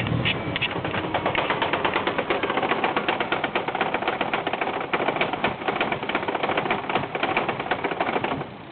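Cold Volkswagen 1.8T AWP turbocharged four-cylinder running very roughly with a fast, uneven stuttering knock, then dying near the end. The rough cold idle and stalling come from a failing MAF sensor making it run too rich.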